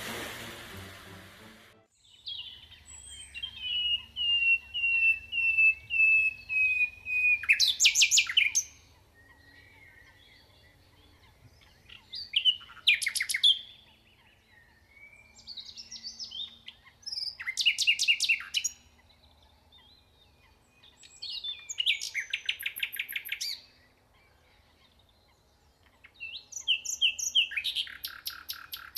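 A songbird singing short phrases, repeated every four to five seconds; each is a run of high chirps ending in a fast rattling trill.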